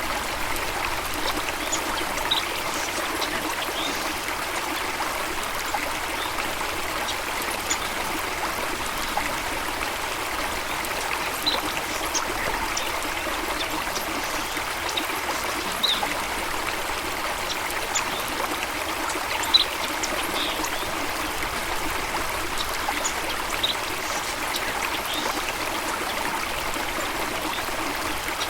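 Flowing water running steadily in an even, trickling rush. Brief high sounds are scattered through it every second or few.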